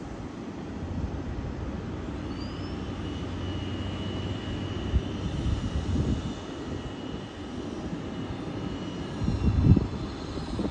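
Jet airliner engines running: a steady rumble with a high whine that rises about two seconds in, then holds steady and fades near the end. A few low thumps come near the end.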